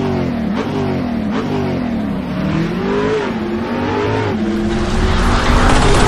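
Car engine revving, its pitch rising and falling several times before levelling off.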